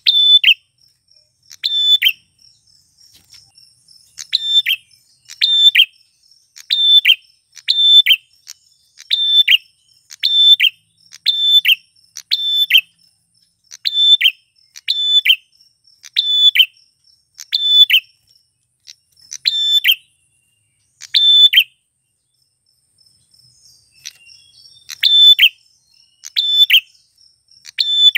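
Male prinia (prenjak) calling loudly: short, sharp chirps repeated about once a second, with a pause of a few seconds about three-quarters of the way through. A faint, steady high trill, like an insect, runs beneath.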